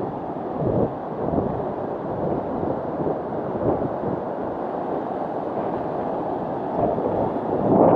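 Wind buffeting the microphone in gusts over the wash of sea surf, a steady low rumble that grows louder near the end.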